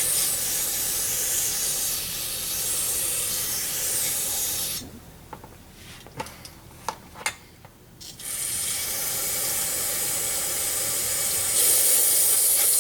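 Aerosol carburetor cleaner sprayed onto a carburetor part in two long hissing bursts, the second louder near its end, with a few light clicks and knocks of the part being handled in the pause between.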